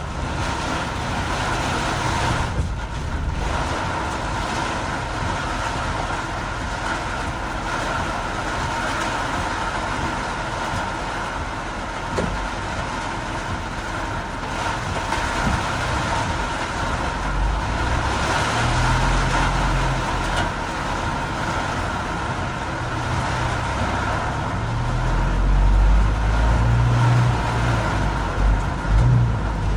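Vehicle driving on a wet road in heavy rain: steady tyre and road noise with low engine rumble, the rumble swelling louder in the second half.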